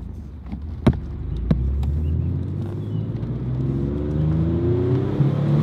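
1995 Mitsubishi 3000GT VR4's twin-turbo 6G72 V6 pulling away in first gear, its pitch rising steadily as it accelerates, with the turbochargers beginning to spool. Two sharp knocks in the first second and a half.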